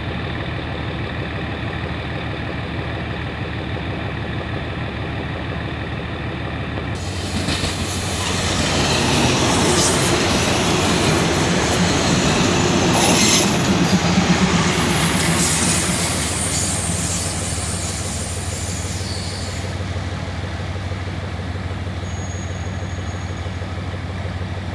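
A GEK-class GE diesel locomotive idles steadily throughout. From about seven seconds in, a diesel railcar train runs past on the next track: its wheels clatter and rush over the rails, with a brief high wheel squeal at its loudest point in the middle. The passing noise fades out by about twenty seconds, leaving the idling locomotive.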